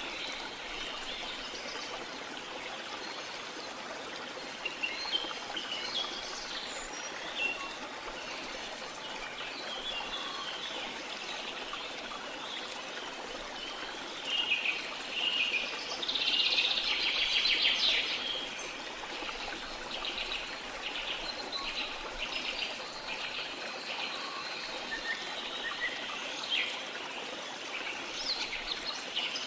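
Rainforest ambience: steady rushing water from a waterfall or stream, with scattered bird calls over it. About halfway through, a louder rapid trilling call lasts a couple of seconds, followed by a run of shorter pulsed calls.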